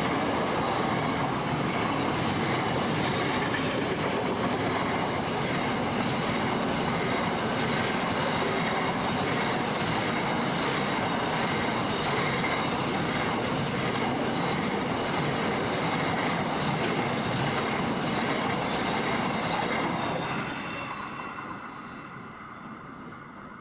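Freight train wagons rolling past: a steady rumble of steel wheels on rail with some wheel squeal, dying away over the last few seconds.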